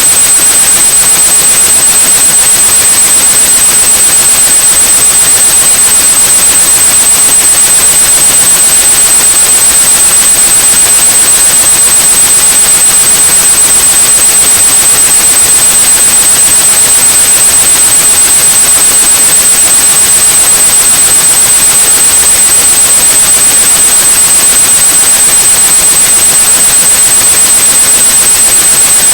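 Steady white noise with a continuous high-pitched pure tone at about 8,100 Hz laid over it, unchanging throughout: a tinnitus-masking sound.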